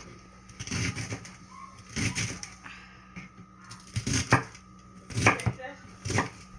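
Stems of leafy greens being cut or snapped for bhaji, a crisp crunching click about once a second, several in quick succession at each stroke.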